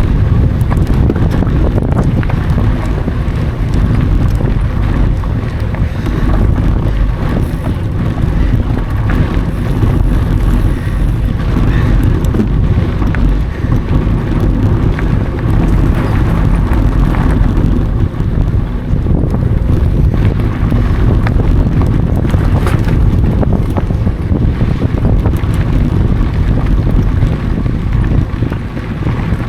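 Wind rushing steadily over an action camera's microphone while a mountain bike rides along a trail, with a few brief knocks from the ride.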